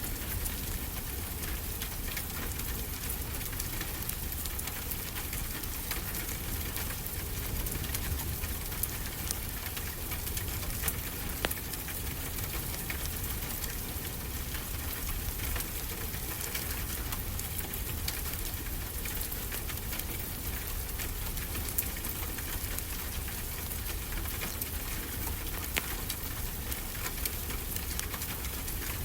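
Wood fire crackling with frequent sharp pops and snaps over a steady hiss and low rumble of ocean waves.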